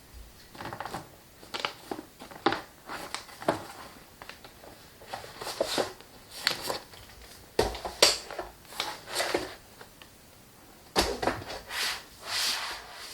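Things being handled by hand: irregular rustling and crinkling with sharp clicks and knocks, in clusters separated by short quiet gaps.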